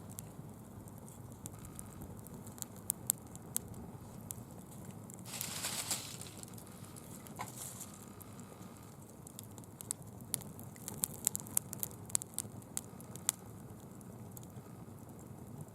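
Small wood fire burning fallen leaves, crackling with sharp pops over a low steady rush. The pops come in clusters and are thickest from about ten to thirteen seconds in, with a short hissing swell about five seconds in.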